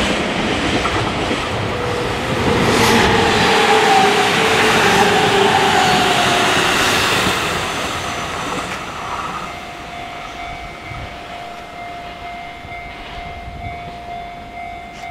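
Electric commuter train passing close by, wheels clacking over rail joints and its motors whining with a pitch that falls as it goes past. The noise fades after about eight seconds, leaving a steady faint whine.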